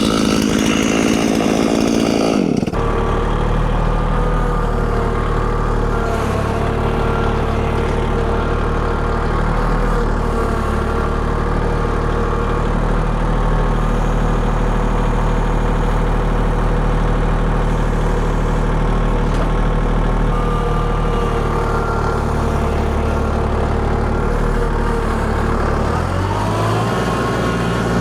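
A chainsaw cutting for the first two or three seconds, then cutting out under a steady engine running at idle. Near the end the engine picks up speed.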